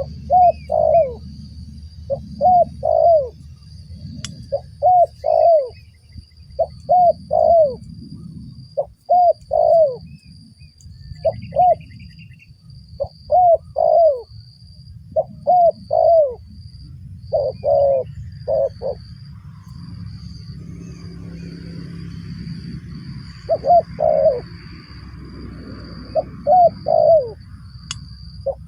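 Spotted dove cooing: short rising-and-falling coos in twos and threes, repeated every second or two, with a pause of a few seconds about two-thirds of the way through. A steady high-pitched buzz and a low rumble run underneath.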